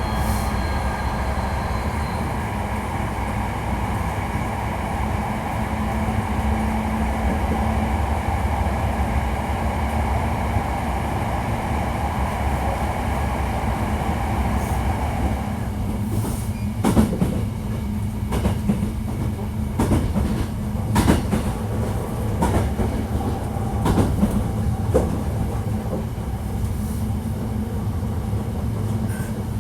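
Hankyu 1300 series electric train running, heard from inside the car: a steady rumble with a motor whine that fades out about halfway through, then wheels clacking sharply over rail joints at irregular intervals.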